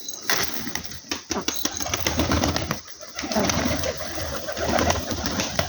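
Domestic pigeons cooing in two long, pulsing bouts, with many sharp clicks scattered through them.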